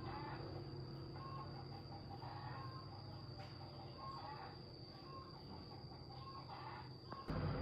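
Faint short bird calls, clucking now and then over a low steady hum; near the end a louder steady noise starts suddenly.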